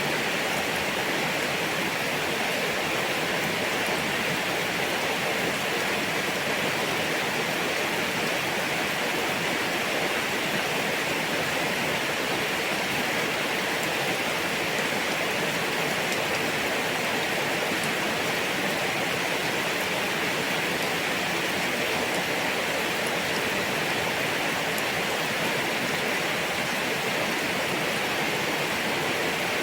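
Steady heavy rain: an even, unbroken hiss of falling water with no pauses or separate drops standing out.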